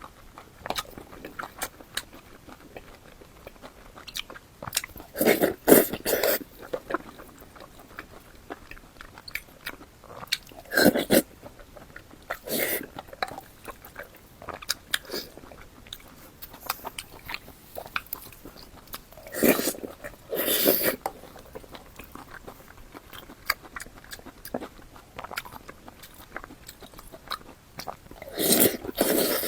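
Close-miked chewing and biting of fatty pork belly: a steady run of small wet mouth clicks, with louder bites and chews about five times.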